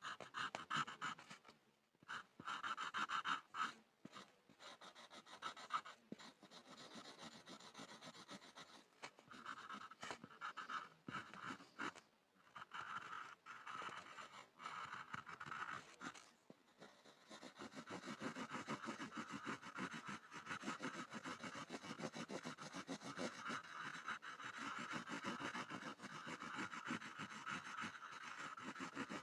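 Pencil scribbling on a board: quick scratchy back-and-forth strokes, in bursts with short pauses at first, then steadier and more continuous for the second half.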